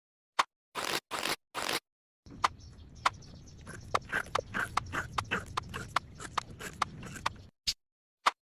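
Three short scraping strokes, then a run of quick clicks and scrapes over a low rumble, a few per second, as a tool works material; the sound is cut off abruptly between edited segments.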